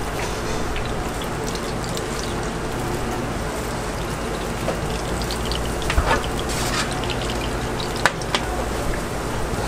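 Dough deep-frying in a vat of hot oil: a steady crackling sizzle, with two sharp knocks, one about six seconds in and one about eight seconds in.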